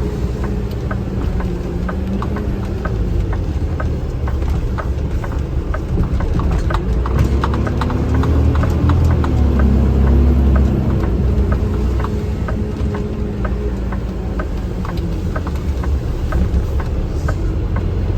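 Garbage truck driving, heard from inside the cab: the engine rumbles low, rising and falling in pitch and louder around the middle, over a steady run of sharp clicks or clacks, about three or four a second.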